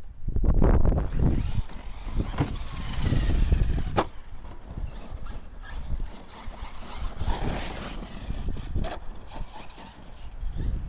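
Electric RC monster truck driving over rough gravel, its brushless motor whining up and down in pitch as it throttles, with tyre and chassis rattle and a sharp knock about four seconds in.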